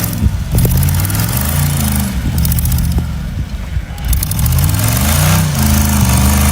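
A motor vehicle's engine revving up and dropping back again and again.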